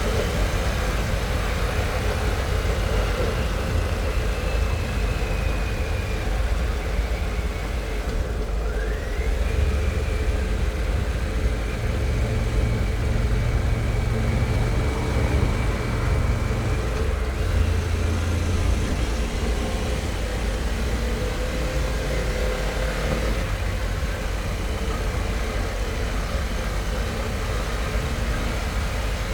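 2022 Harley-Davidson Pan America's 1250 Revolution Max V-twin running under way, mixed with steady wind and road rush. The engine's pitch rises briefly about eight seconds in.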